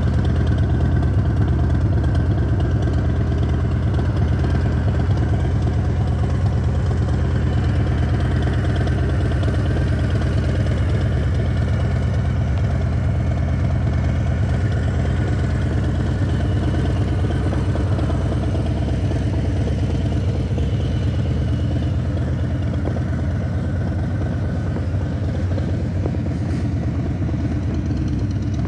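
Harley-Davidson Deluxe's V-twin engine idling steadily, a little quieter in the second half.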